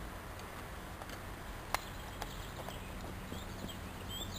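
Newly lit small campfire crackling quietly, with a few sharp pops spaced about half a second apart in the middle, over a steady faint hiss. Faint short chirps come in near the end.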